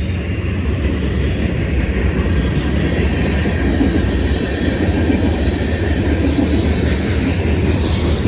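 Freight cars of a Union Pacific mixed freight train rolling past, a steady loud rumble of steel wheels on rail with a faint high ringing tone over it.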